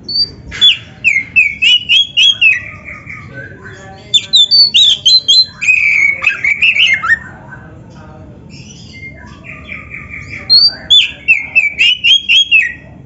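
Oriental magpie-robin (kacer) singing a loud, varied song rich in mimicked phrases: three bursts of quick whistled and chattering notes that sweep up and down, separated by pauses of a few seconds.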